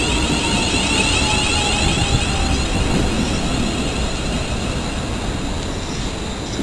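A train running through the station, its steady noise carrying a whine that slowly falls in pitch, and a high shimmering whine that fades away by about halfway.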